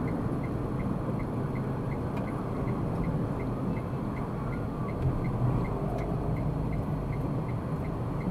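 Steady low road and engine rumble inside a moving car's cabin, with a faint, even ticking about three times a second from the turn-signal indicator.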